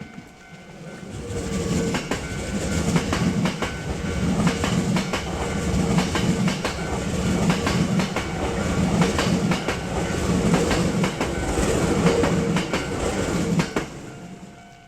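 A train passing close by, its wheels clattering rhythmically over the rail joints. The sound builds up about a second in, holds, and falls away sharply near the end.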